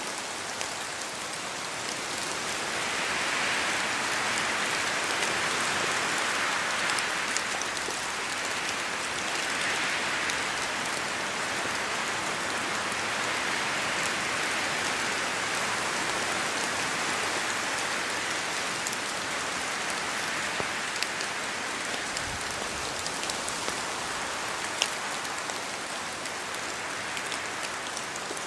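Steady rain falling on forest foliage, an even hiss with many scattered drips and drop ticks, swelling and easing gently in slow waves as gusts of wind move through the trees.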